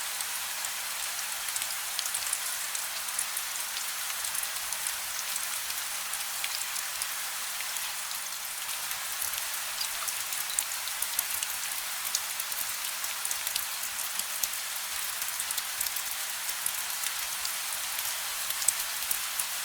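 Steady rain falling, a dense even hiss with many small sharp drop ticks; no thunder. A faint low hum runs underneath.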